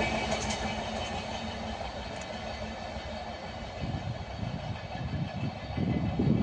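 Indian Railways express passenger train running past, its rumble easing off and then building again with uneven low thuds of wheels on the track toward the end.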